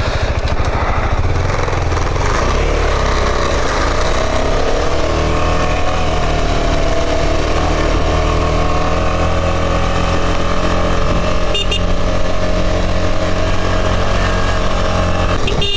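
Motorcycle engine running under load on an uphill climb; its pitch rises over a few seconds and then holds steady.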